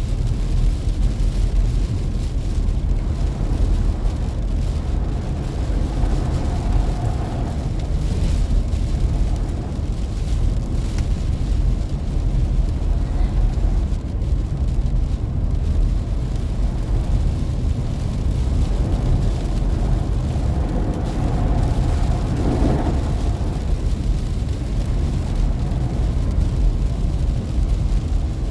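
Steady low rumble of a car driving on a rain-soaked road, heard from inside the cabin, with a wash of rain and wet tyre noise over it.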